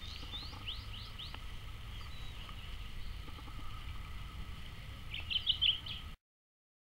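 Wild birds chirping: a few quick sliding calls in the first second, then a louder flurry of chirps a little after five seconds, over a faint steady low rumble. The sound cuts off suddenly about six seconds in.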